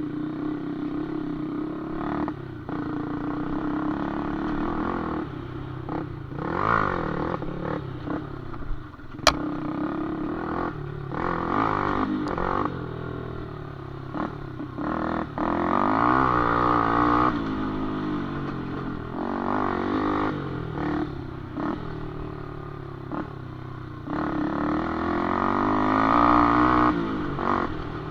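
Cupcross underbone motorcycle engine revving, its pitch rising and falling again and again as the throttle is opened and closed. There is one sharp knock about nine seconds in.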